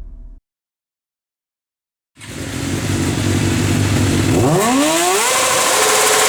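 Music cuts off, then after a short silence engine and rushing road and wind noise fade in; about four seconds in, an engine's pitch climbs quickly as it accelerates, then holds steady at high revs.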